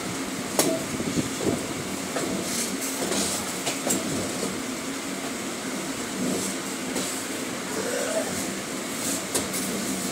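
Suburban electric train running on curving track, heard from the doorway of a moving coach: a steady low hum with irregular sharp clicks of the wheels over the rails.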